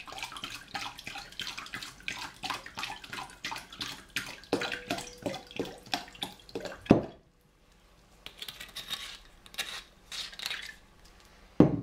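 Apple juice poured from a glass bottle into a glass bowl of leaves and lemon juice, splashing continuously for about seven seconds and ending with a sharp knock. After that come lighter scattered handling noises and another knock near the end.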